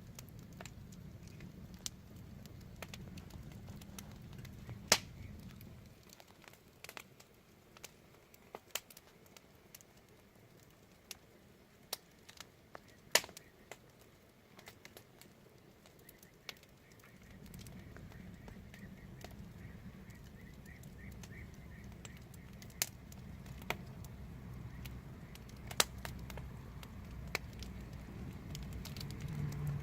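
Wood fire crackling, with irregular sharp pops and snaps scattered throughout, two of them clearly louder than the rest. A low rumble underneath drops away about six seconds in and comes back after about seventeen seconds.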